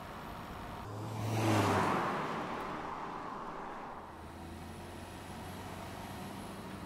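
A car passing by: its noise swells to a peak about a second and a half in and fades away over the next two seconds, over a steady background hum.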